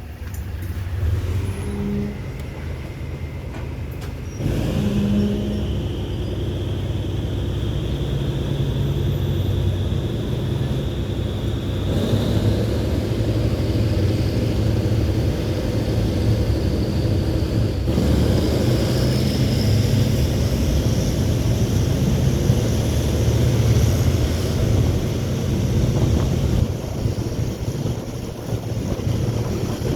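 Diesel-hauled passenger train running along the line: a steady low rumble of engine and wheels, with a faint whine that rises slowly in pitch, twice.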